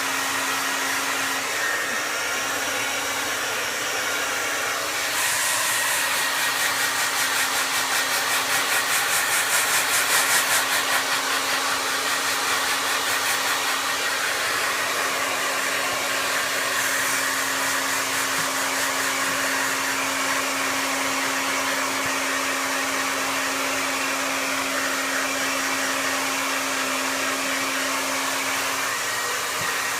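Hair dryer running steadily, a rushing blow with a constant motor hum. For several seconds in the middle the air noise flutters in a rapid pulse, loudest about ten seconds in.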